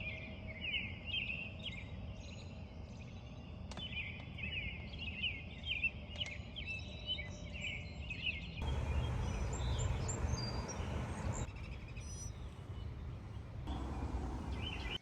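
Birds singing loudly in the night, a dense run of quick, repeated chirps over a steady low rumble. About two-thirds in, the chirping gives way abruptly to a louder rushing noise, and faint chirps come back near the end.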